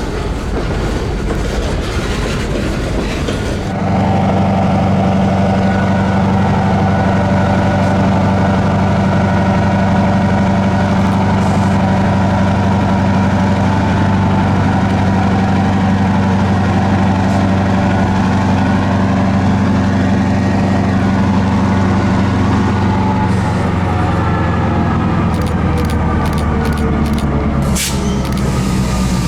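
Freight cars rolling over the rails with a clattering noise, then from about four seconds in an EMD diesel road-switcher locomotive's engine running steady and loud close by as it shoves the train. Its note dips slightly about twenty-four seconds in.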